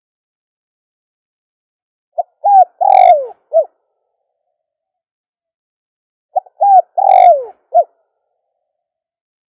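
Spotted dove cooing: two song phrases about four seconds apart, each a couple of short notes building to a long falling coo and a short closing note.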